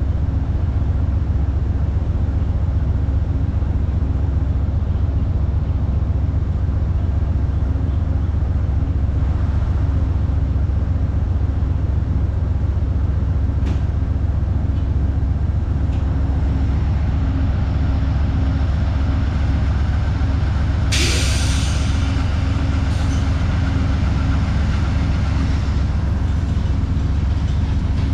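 Amtrak passenger train standing at a platform with its diesel locomotives idling: a steady low drone with a faint hum above it. About two-thirds of the way through, a brief hiss of air is released, with a smaller one a couple of seconds later.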